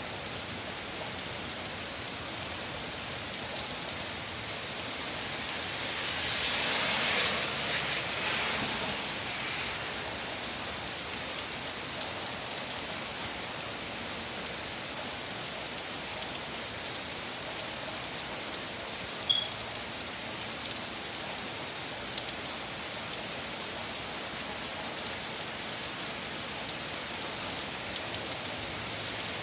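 Heavy thunderstorm rain falling steadily in an even hiss. About six seconds in the hiss swells louder for roughly three seconds, then settles, and a single short high chirp comes about two-thirds of the way through.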